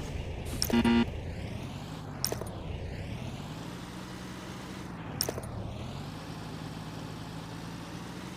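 Small electric motor of a DIY miniature tractor and chaff-cutter running, its hum slowly rising and falling in pitch as the load changes. A short loud buzzing blip comes about a second in, and sharp clicks come twice later.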